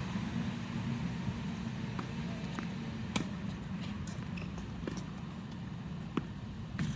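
Tennis ball being struck by rackets and bouncing on the court during a rally: sharp pops every second or so over a steady low hum.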